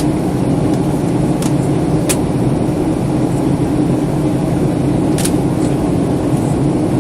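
Steady jet-engine and airflow roar inside the cabin of a Boeing airliner on its landing approach, with three faint clicks.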